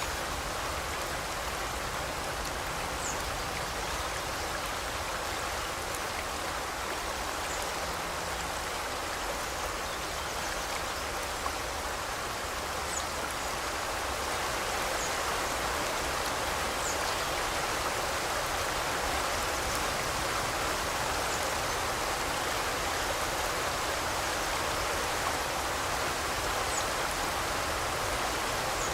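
A forest river flowing: a steady rush of running water, with a few faint, high bird chirps now and then.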